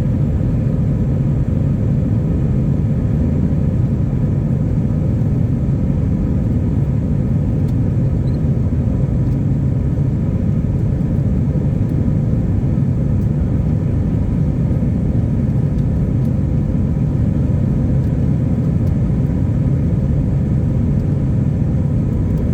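Steady, unbroken rumble of an Airbus A319 in flight, its IAE V2500 engines and the airflow heard from inside the passenger cabin, with a faint steady hum over the low roar.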